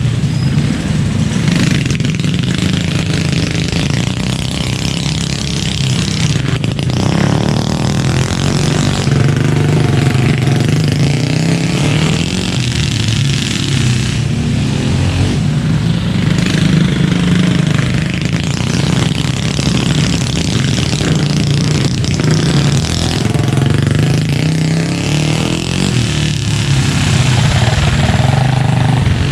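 Mini bike engines running hard on a dirt flat track, their pitch rising and falling as the bikes speed up and slow through the laps.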